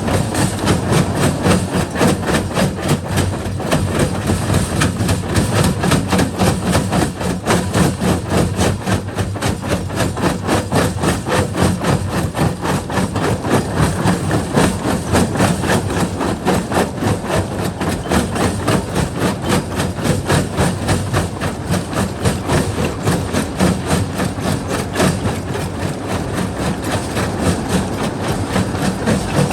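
Primary jaw crusher breaking rock: a continuous, dense clatter of rocks knocking and cracking between the jaws over the low hum of the machine.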